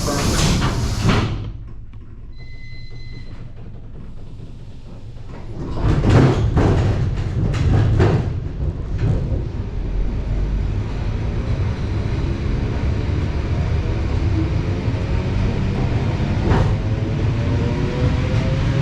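Electric commuter train pulling away: a burst of air hiss, a short single-pitched beep, then clunks and knocks from the wheels and couplings as it starts moving. Under them a rumble of wheels on rail and a rising motor whine as it gathers speed.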